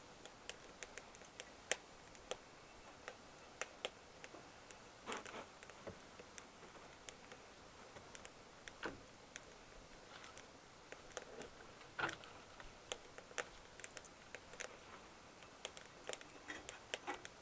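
Wood fire crackling faintly in the firebox of a BioLite Basecamp twig-burning stove, with irregular sharp pops and snaps scattered throughout.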